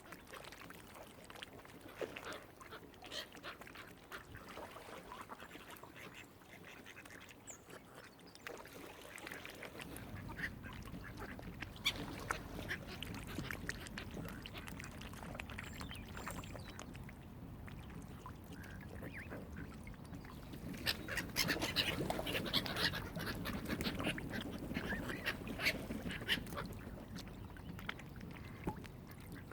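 Waterfowl calling: many short calls, scattered through and busiest in the last third. A low steady rumble joins about a third of the way in.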